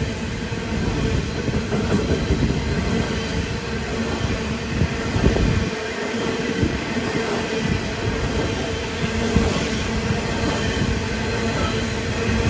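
Loaded coal hopper wagons of a freight train rolling past close by: a steady rumble and rattle of steel wheels on the rails.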